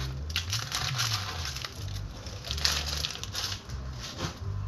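Paper towel being crumpled and rubbed by hand during cleanup: irregular rustling and crinkling with no steady rhythm.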